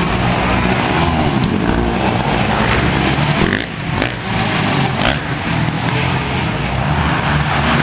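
Motocross bike engine running and revving up and down, with a few sharp clicks about midway.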